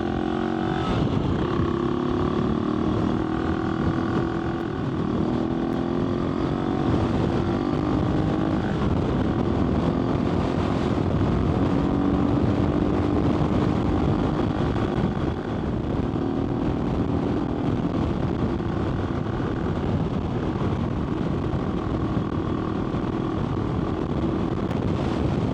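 AJP PR7's single-cylinder engine running under way, its pitch rising and falling as the throttle and gears change, with wind rushing over the microphone.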